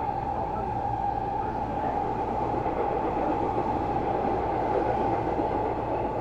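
Seibu New 2000 series electric commuter train running, heard from inside the car: a steady rumble of wheels on rail and running gear.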